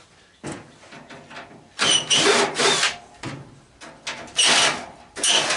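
Cordless drill with a 5/16 nut driver running in three short whining bursts, backing sheet-metal screws out of an AC condenser's cabinet panels.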